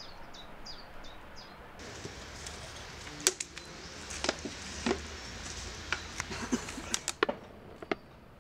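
A small bird sings a repeated short falling chirp, about three a second, for the first two seconds. Then a low steady outdoor rumble with a scattered series of sharp clicks and knocks, the loudest sounds here.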